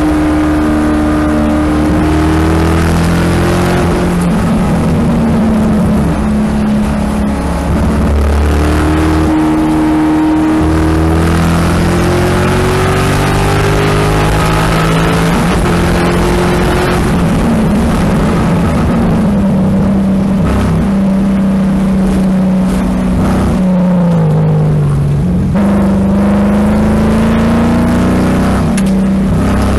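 2007 Chevrolet Corvette C6 Z06's 7.0-litre LS7 V8 heard from inside the car at full throttle on a race track. It climbs in pitch through the gears with breaks at each upshift, then falls away as the car brakes and downshifts for a corner late on. Wind and tyre noise run underneath.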